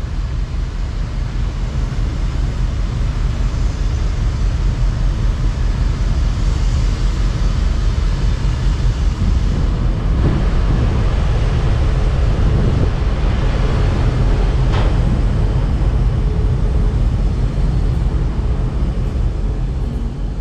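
Chemical/oil tanker passing, its engine a deep steady rumble that grows louder over the first few seconds and then holds.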